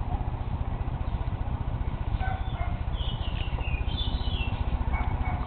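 Birds chirping a few short times, mostly in the middle, over a steady low rumble.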